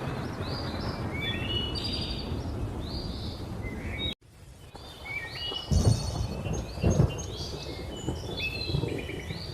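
Thunderstorm ambience with many birds chirping over a steady low rumble. About four seconds in, the sound cuts out for a moment, then returns with two loud claps of thunder about a second apart.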